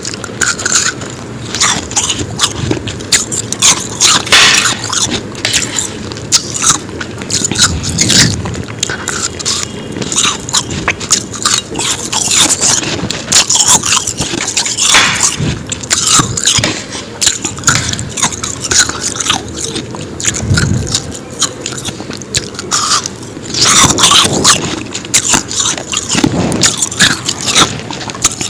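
Close-miked crunching as powdery ice is bitten and chewed, one crisp crunch after another with louder clusters of bites.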